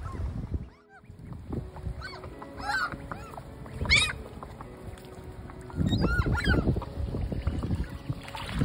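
Seagulls calling in three bursts, the middle one loudest, over wind rumbling on the microphone.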